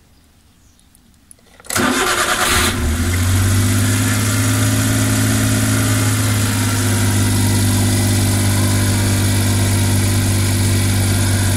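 Suzuki Every DA62V kei van's three-cylinder K6A engine being started. After a faint click, the starter cranks for about a second starting nearly two seconds in, the engine catches, and it then idles steadily.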